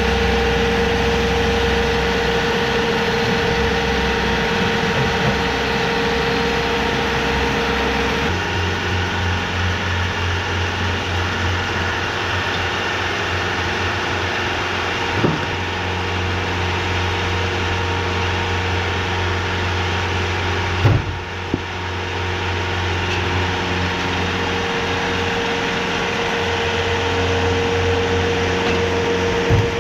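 TimberKing 2520 portable band sawmill running steadily, its engine driving the band blade. The tone changes suddenly about eight seconds in, and a few sharp knocks come in the middle and near the end.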